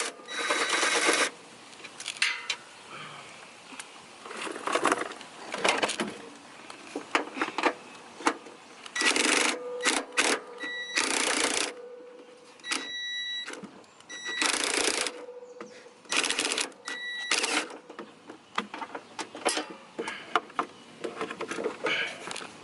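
Hand tools working on a car's exhaust as a muffler is unbolted: bursts of rapid clicking and rattling, about a second each, with sharp metal clinks and brief ringing tones between them.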